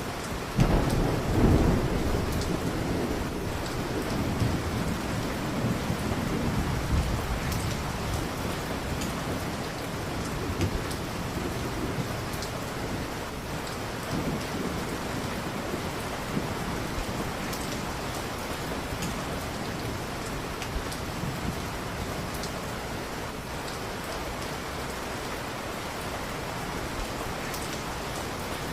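Steady rain falling, with a low roll of thunder about half a second in that is loudest in the first couple of seconds and rumbles away over several seconds.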